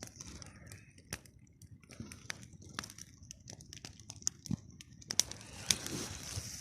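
Campfire crackling: irregular sharp snaps and pops over a soft hiss, busier and louder in the last second and a half.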